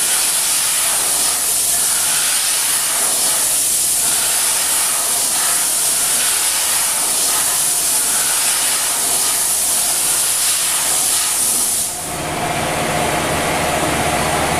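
A loud, steady hiss, like a jet of air or spray. About twelve seconds in it stops, leaving a lower machine hum with a faint steady tone.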